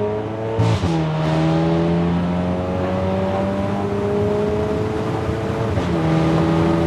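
Car engine accelerating hard at full throttle, its pitch climbing slowly under a heavy load of passengers and dropping at two upshifts, about a second in and again near the end. Heard from inside the cabin.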